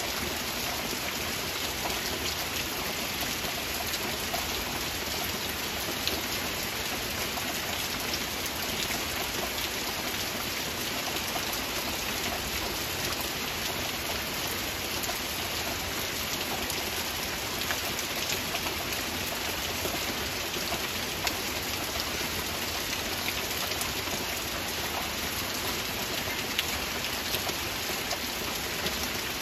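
Heavy rain falling steadily: a dense, even hiss dotted with many small, sharp drop hits, with no thunder.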